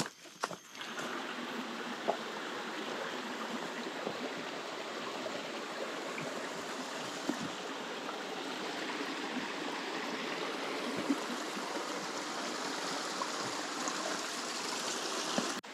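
Steady rush of a jungle stream's running water, with a few faint clicks; it starts just under a second in and cuts off suddenly near the end.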